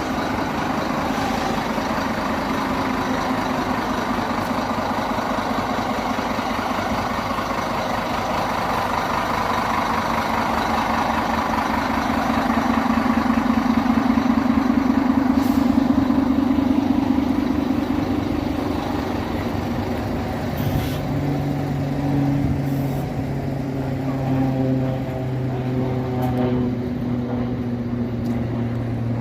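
Diesel city bus engine running: its note rises and grows louder through the middle, then falls back to a lower steady drone for the last third.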